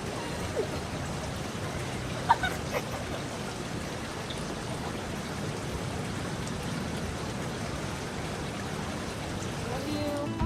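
Running water from an outdoor fountain or water feature, a steady hiss of splashing.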